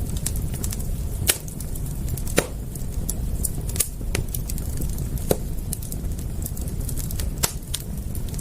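Campfire crackling: irregular sharp pops and snaps, a handful noticeably louder, over a steady low rumble.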